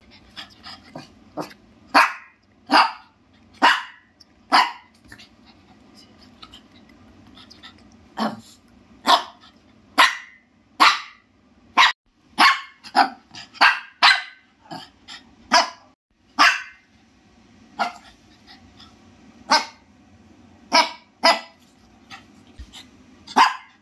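Shih Tzu barking: short, sharp single barks, sometimes about one a second in runs of three or four, with pauses between the runs.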